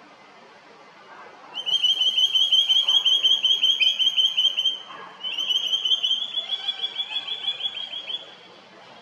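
A bird calling in two long runs of rapid, high, clear repeated notes, each run about three seconds long, with a short break between.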